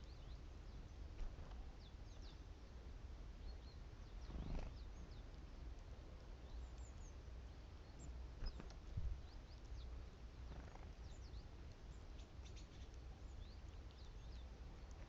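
Titmice giving many thin, high, short call notes in quick scattered succession over a faint steady outdoor hush. A few soft thumps come in the middle, the loudest about nine seconds in.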